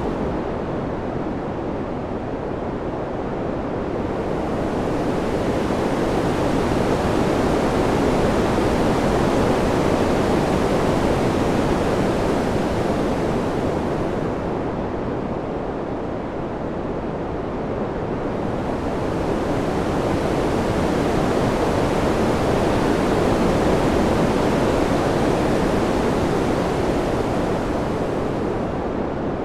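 Wind ambience: an even rushing noise that swells and eases in slow waves about fourteen seconds apart, the high hiss falling away in each lull.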